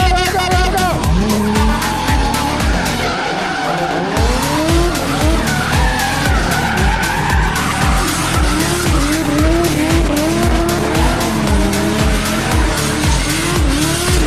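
Drift car engine revving with tires squealing and skidding, mixed with dance music that has a steady kick drum about twice a second. The beat drops out for about a second roughly three seconds in.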